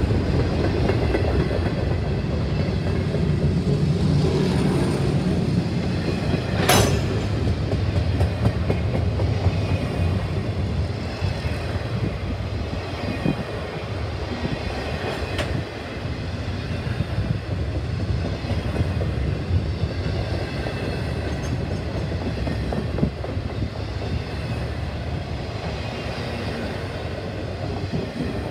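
Freight train of double-stack container well cars rolling past, its wheels giving a steady low rumble on the rails. A sharp clank cuts through about seven seconds in, and a fainter one near the middle.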